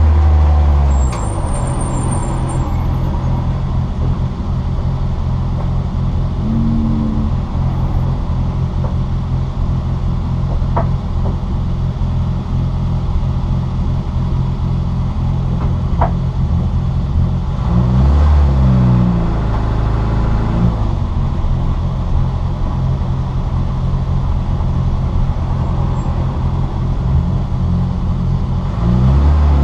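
Citroën Saxo VTR's four-cylinder engine at racing speed, heard from inside the car, holding a steady high pitch for long stretches. The engine note drops sharply about a second in, and dips then climbs again through gear changes about eighteen seconds in and near the end.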